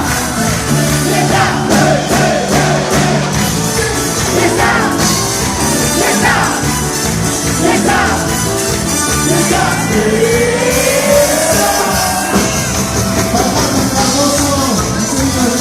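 Live band playing a medley of dance songs, with a male lead singer over steady bass and drums, amplified loud in a hall, with some shouts from the crowd.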